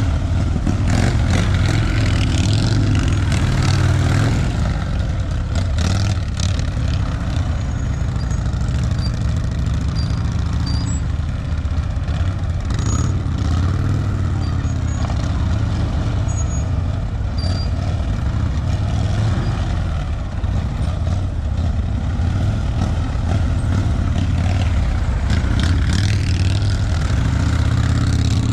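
Motorcycle engine running at low speed, rising and falling a little in pitch with the throttle.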